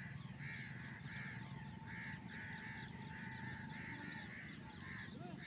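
A bird calling over and over in short, loud calls, two or three a second, over a steady low rumble.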